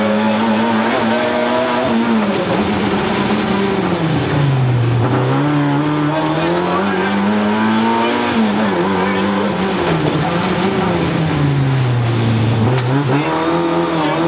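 Rally car's engine heard from inside the cockpit, running hard at high revs on a special stage. Twice, about four and twelve seconds in, the revs sink and then climb again.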